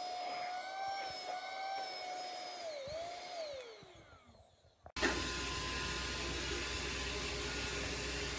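The whine of a compact cordless vacuum's motor holds steady, then falls in pitch and fades out about three to four seconds in as the motor spins down. After a brief near silence there is a sudden switch to a steady low hiss and hum.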